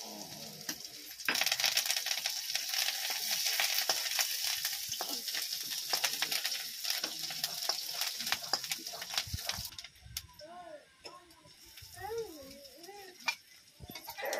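Chopped vegetables sizzling in hot oil in a wok, the sizzle starting suddenly about a second in as they hit the oil, with the scrape and tap of a metal spatula stirring them. The sizzling dies down after about ten seconds, and a few short wavering calls follow near the end.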